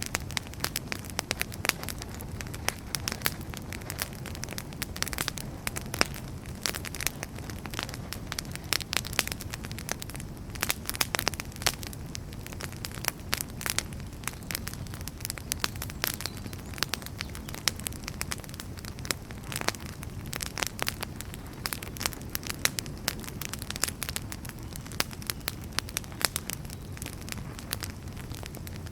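Wood fire burning in a fireplace, with frequent sharp crackles and pops from the burning firewood over a steady low rumble of the flames.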